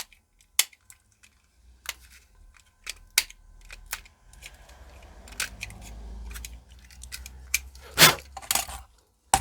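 Sharp plastic clicks and knocks from handling a wall clock's quartz movement and working at its clip-fastened case, about eight scattered strokes, with a low handling rumble through the middle.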